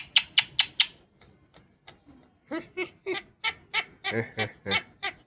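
Pet parakeet chattering in reply to being asked its name: a quick run of short clicking chirps, then a string of short chattering syllables from about halfway through.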